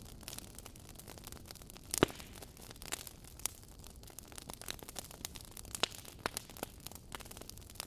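Wood fire crackling in a fireplace: irregular snaps and pops over a soft hiss, with one loud pop about two seconds in.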